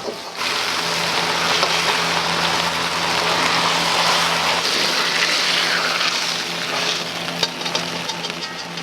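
Food frying in hot oil in a restaurant kitchen: a steady, dense sizzle over a steady low hum, with a few light clinks near the end.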